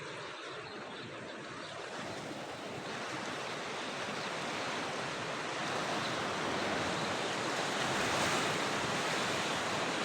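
Wind blowing over the microphone: a steady rushing noise that slowly grows louder.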